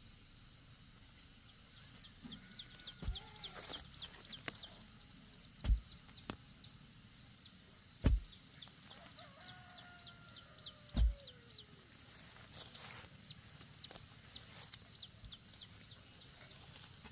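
Chickens calling, with runs of quick, high chirps repeated in fast series. Four heavy knocks come a few seconds apart.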